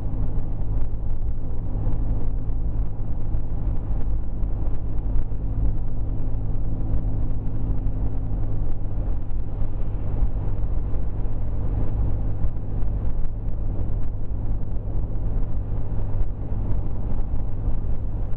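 Steady drone of a car's engine and tyres heard from inside the cabin while driving, a constant low hum with no sharp events.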